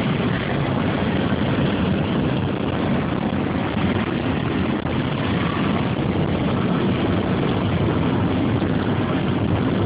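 Steady road, wind and engine noise inside a Chevrolet Cobalt's cabin at highway speed, with no clear revving or gear changes.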